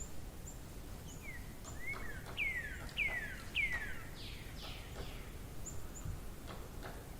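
Birdsong: a songbird sings a run of about six whistled notes, each sliding down in pitch, loudest in the middle of the run, while short high chirps sound now and then. A low steady rumble lies underneath.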